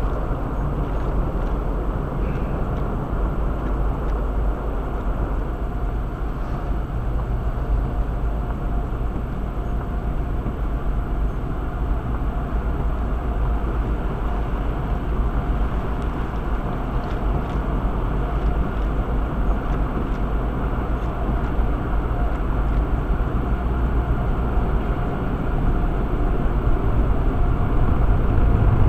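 Steady road and engine noise inside the cabin of a 2008 Chevrolet Cobalt with a manual transaxle, driving along. It gets slightly louder near the end.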